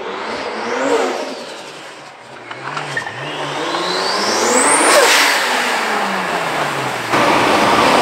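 Single-turbo Toyota 2JZ straight-six accelerating hard in a Supra, the engine note and a turbo whine climbing to their loudest about five seconds in, then dropping as the car goes by. Near the end this gives way to a steadier engine drone.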